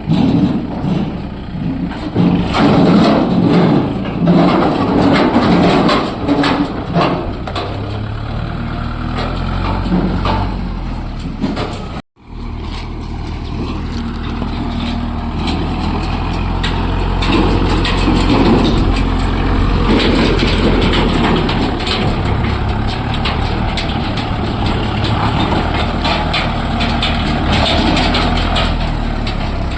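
Kubota MU4501 tractor's four-cylinder diesel engine running steadily during trolley work, with frequent clatter. The sound drops out for a moment about twelve seconds in, then picks up again.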